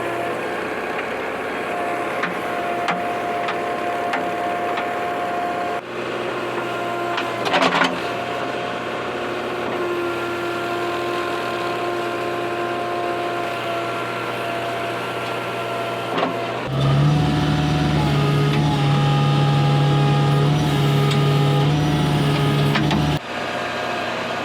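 JCB 3DX backhoe loader's diesel engine running steadily, with level whining tones from the machine. Once, a brief clatter. About two-thirds of the way in, a louder, deeper drone sets in for about six seconds as the machine works its hydraulics, then cuts off suddenly.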